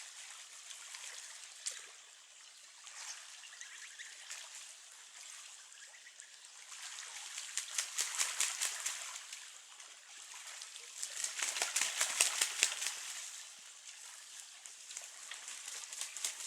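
Running water trickling and splashing in a small stream, with quick crackling splashes that swell twice, about halfway through and again a few seconds later.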